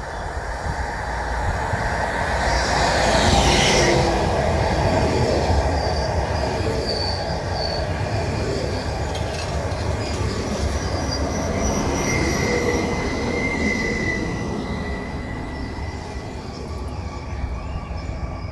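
Train running past on the rails with a steady rumble, loudest a few seconds in, with high thin wheel squeals partway through and again later.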